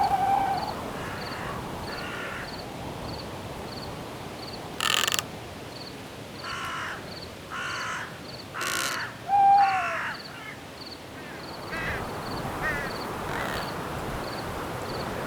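Field crickets chirping at an even rhythm of about two to three chirps a second over a steady wind hiss. In the middle, a bird gives a run of about half a dozen harsh, crow-like caws, and a short whistled call is heard at the start and again about halfway through.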